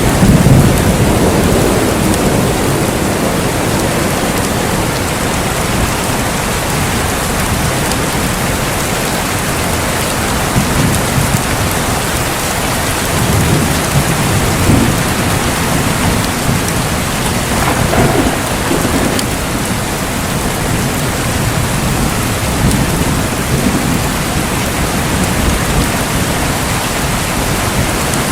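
Steady heavy rain with rolling thunder: low rumbles swell at the start and again mid-way, and a sharper thunderclap rolls out about 18 seconds in.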